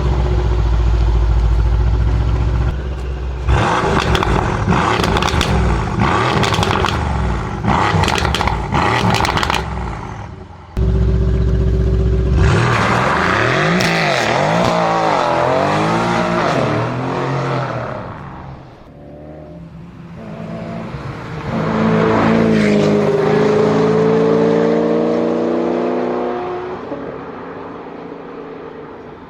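Sports car engine: a deep running note with a run of sharp cracks, then revs swinging up and down, then a long acceleration with rising pitch that fades away near the end.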